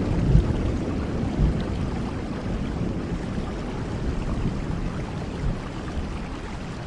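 Steady rain with a low rumble of thunder slowly dying away.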